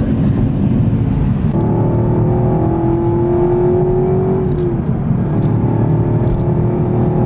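Cabin sound of a 2021 Camaro SS 1LE under way: low rumble of its 6.2-litre V8 and road noise, with a steady engine drone that climbs slightly, drops about four and a half seconds in, and comes back shortly after.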